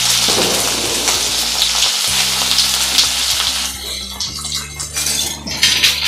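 Cauliflower florets sizzling as they fry in hot mustard oil in a steel kadhai. The sizzle weakens about four seconds in.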